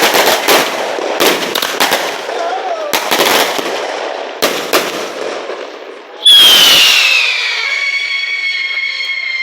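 Fireworks going off: rapid firecracker bangs and crackling for about six seconds, then a loud whistling firework that starts suddenly and slowly falls in pitch.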